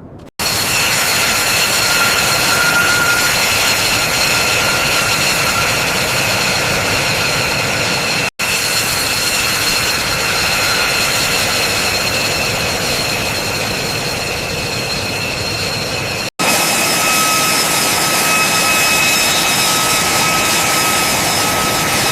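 Engine running steadily with a high whine over a loud rushing noise. The sound cuts out abruptly for an instant twice, about eight seconds apart, and the whine's pitch shifts a little after each cut.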